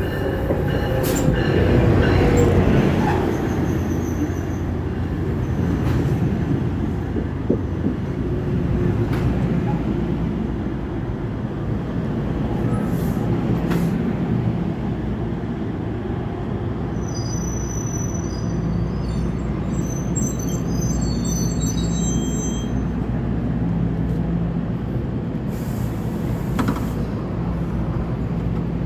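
NJ Transit train of Bombardier bilevel coaches pulling into a station and slowing to a stop. The run-by is loudest about two seconds in, then the wheels rumble steadily along the rails. Brief high-pitched brake squeals come in the last third, over a steady low hum from the train.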